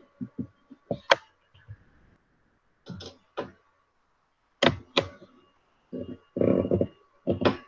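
A scattered series of short knocks and thuds, like objects being handled and set down on a table, with a few brief muffled sounds in between.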